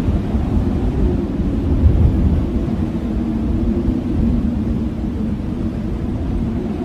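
Strong blizzard wind blowing steadily: a deep, even rush with a low, wavering howl.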